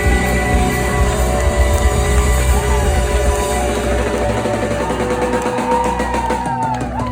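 Live jam band playing loudly: steady bass and drum kit under sustained, bending lead lines.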